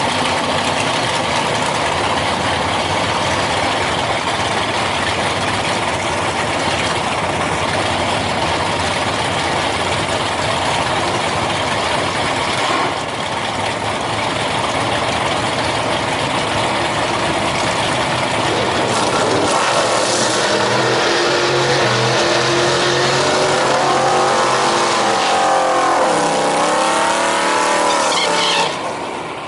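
Loud drag racing engine noise, steady at first; in the last third the engine revs rise and fall several times before the sound cuts off abruptly near the end.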